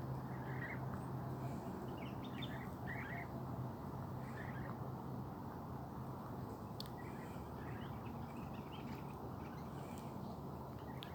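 Park birds chirping in short, scattered calls over a steady low hum and background noise. The hum is strongest in the first second or so, then fades back.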